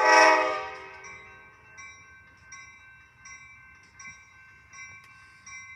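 A train's warning bell ringing over and over at a departing Amtrak train, about one ring every three-quarters of a second. It opens with one loud tone that fades out over about a second.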